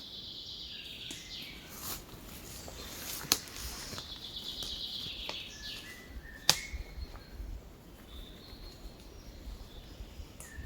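Songbirds singing: repeated high, rapid trilling phrases, with a few lower whistled notes later. Two sharp clicks, a third of the way in and past the middle, are the loudest moments.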